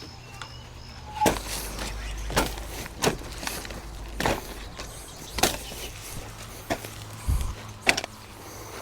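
Footsteps, a series of sharp, uneven steps at about one a second, over a low steady rumble.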